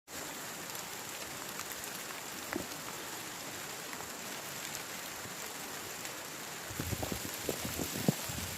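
Heavy rain falling steadily. Near the end comes a run of low thuds.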